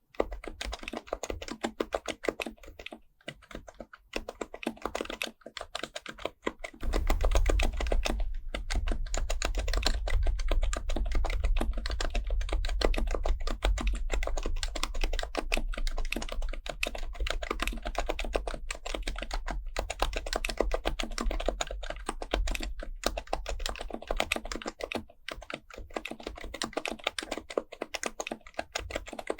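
Fast, continuous typing on an HHKB Professional Type-S keyboard, its silenced Topre capacitive keys giving dense, rapid soft clacks. From about a quarter of the way in, a low rumble runs underneath the keystrokes and fades out a few seconds before the end.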